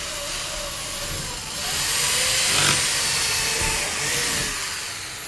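Electric drill boring a hole through a wooden board, the motor whining under load; it bites harder and gets louder about a second and a half in, then eases off near the end as the bit works through.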